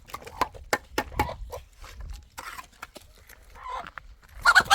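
A string of sharp, irregular taps and knocks, then a hen clucking loudly near the end.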